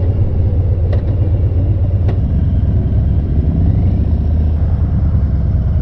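Harley-Davidson V-twin motorcycle cruising at road speed: a steady, loud low rumble with no change in pitch.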